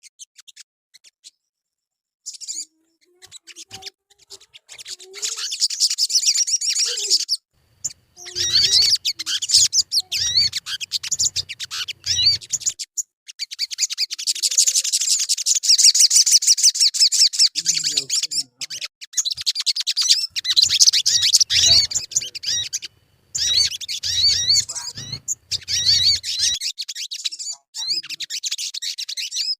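Sogon bird calling: bouts of rapid, high-pitched chattering trills several seconds long, broken by short pauses.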